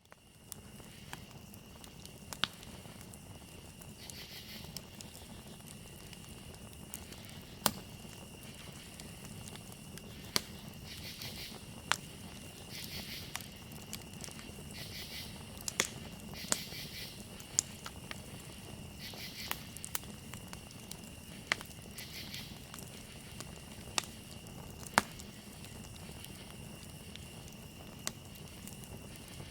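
Campfire crackling with sharp pops at irregular intervals, over a steady high trilling of crickets. Bursts of louder, pulsing insect calls come and go through the middle.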